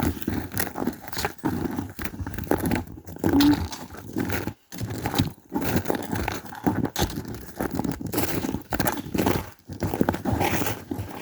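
Footsteps and rustling while walking, with irregular crunches and crackles close to the microphone.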